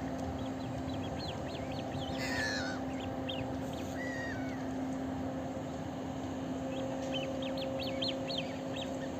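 Birds calling: runs of quick, high chirps with a couple of louder, harsher calls between them, over a steady low hum.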